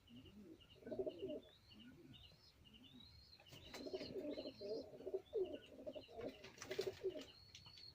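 Pigeons cooing: clusters of low throaty coos that come more thickly in the second half, with thin high chirps and short rising whistles over them.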